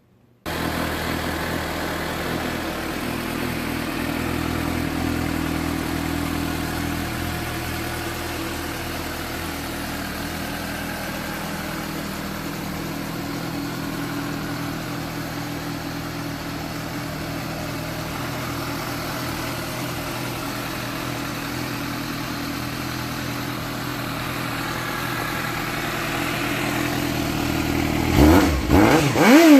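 2015 Suzuki GSX-S750's 749 cc four-cylinder engine idling steadily, then revved in a few quick throttle blips near the end.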